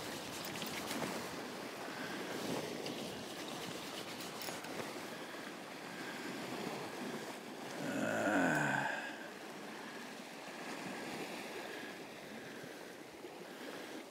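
Sea waves washing steadily against a rocky shore. About eight seconds in there is a brief louder sound that falls in pitch.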